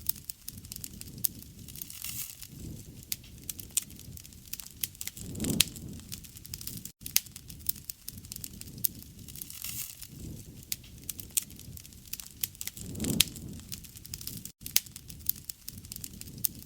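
Wood fire burning: irregular sharp crackles and pops over a low steady rush of flame, which swells twice.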